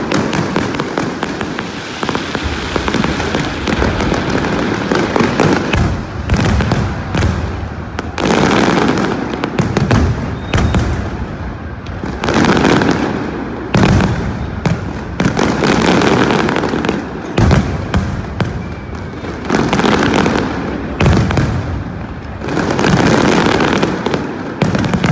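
Aerial fireworks display: a continuous barrage of shell bursts and crackling, with louder volleys swelling every couple of seconds.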